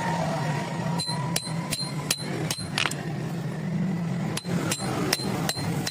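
Hand hammer striking iron with sharp, ringing blows, about three a second, in two runs separated by a short pause. A steady low hum runs underneath.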